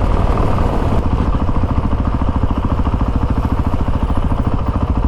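Honda CRF450RL dirt bike's single-cylinder four-stroke engine running at low revs near idle, with an even, rapid beat.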